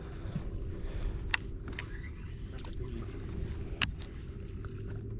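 Boat motor running with a steady hum, and two sharp clicks, about two and a half seconds apart.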